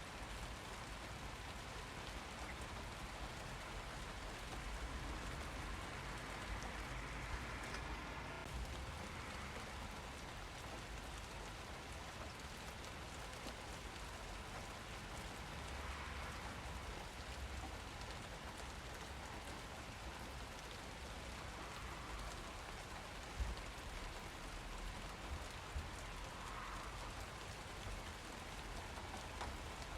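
Steady rain falling, an even hiss, with a few brief louder ticks of drops about a third of the way in and again near the end.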